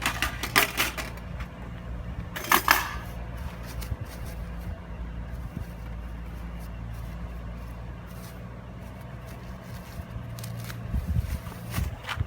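Metal parts of a folding fire pit clinking and clattering as they are handled and fitted together. The sharpest clatters come at the start and about two and a half seconds in, over a steady low hum.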